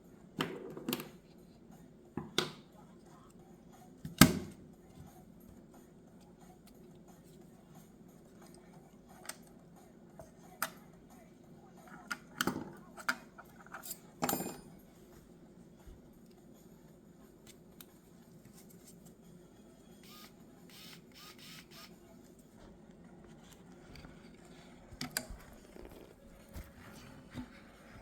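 Scattered sharp clicks and light knocks of small tools and phone parts being handled on a desk during a phone screen repair, the loudest about four seconds in, over a steady low hum.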